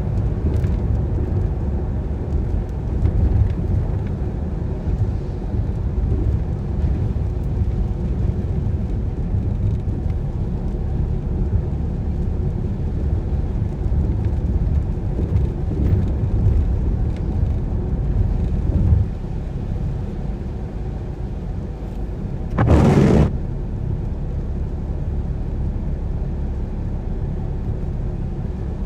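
Car driving on wet roads: a steady low rumble of road and engine noise that eases off about two-thirds of the way through. Shortly after, there is a brief loud whoosh lasting about half a second.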